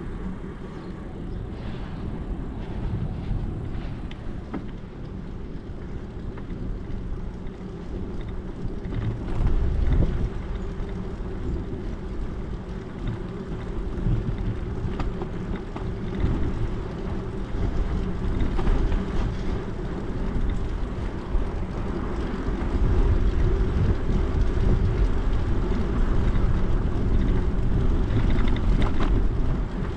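Steady wind rumble and rolling noise of a bicycle ride, heavy and low, with a few faint rattles or clicks, swelling a little louder in the second half.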